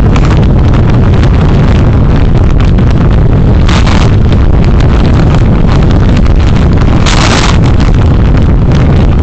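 Driving noise of a car picked up by a dashcam microphone: a loud, steady low rumble of engine and road with wind buffeting the microphone. Two short hisses come about four and seven seconds in.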